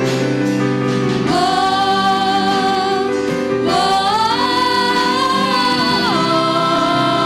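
Music: a singer holds long, sustained notes of a Korean worship song over a steady band accompaniment, with two sung phrases starting about a second in and near the middle.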